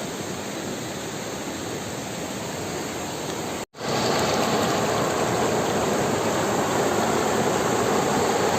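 Rushing water of a waterfall, a steady noise that cuts out for a moment a little over three seconds in and comes back louder.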